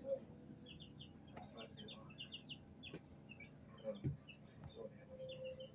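Young chickens peeping: many quick, high peeps in short runs, with a few faint knocks in between.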